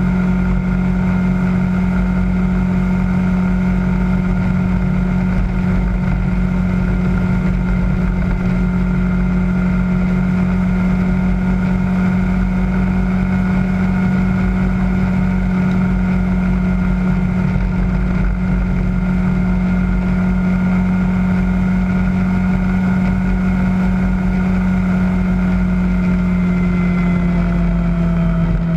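Kawasaki ZZR600's inline-four engine running at steady revs while cruising, its note easing down slightly near the end.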